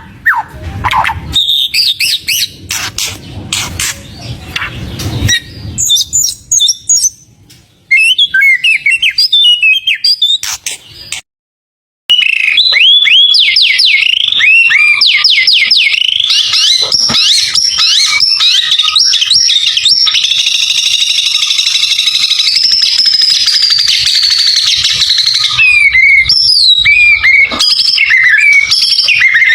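White-rumped shama (murai batu) singing a loud, varied song of quick whistles and trills. It breaks off in a brief silent cut about eleven seconds in, then resumes as a dense, unbroken stream of rapid trills.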